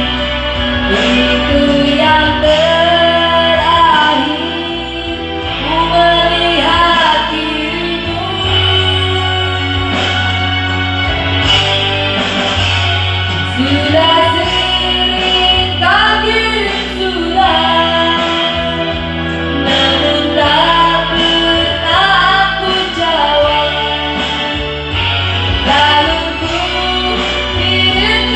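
A woman singing with backing music.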